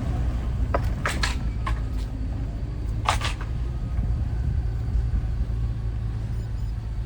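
Steady low rumble of a car on the move, heard from inside the cabin, with a few short sharp clicks about a second in and again about three seconds in.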